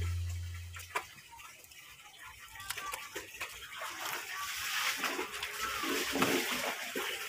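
Water splashing and sloshing, with scattered clicks, after background music fades out in the first second.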